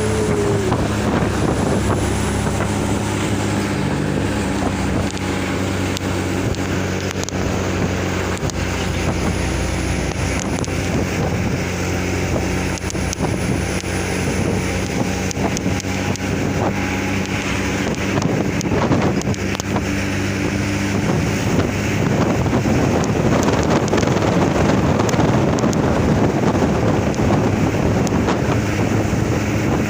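Loaded truck's engine running steadily at speed, a constant low drone mixed with wind and road noise.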